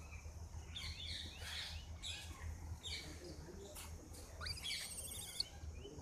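Birds chirping: many short, quick chirps and rising notes, with a trill about five seconds in. A steady low rumble runs underneath.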